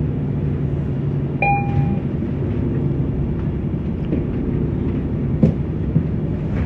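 Steady low rumble of a moving public-transit vehicle heard from inside. About one and a half seconds in there is a short electronic beep, and a sharp knock comes about five and a half seconds in.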